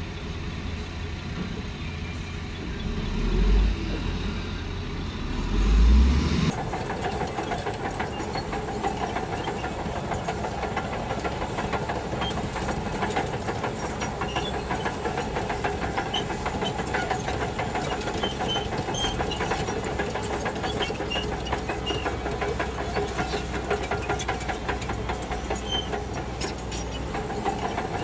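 Shantui DH17C2 bulldozer's diesel engine running, with two low surges early on. About six seconds in the sound changes abruptly to a steady engine note with a fine, rapid clatter.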